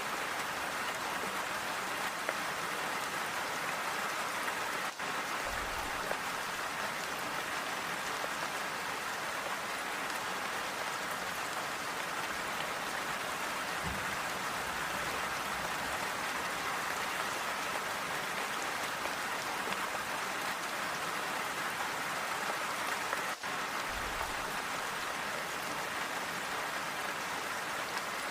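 Steady, even rain falling and pattering on a surface.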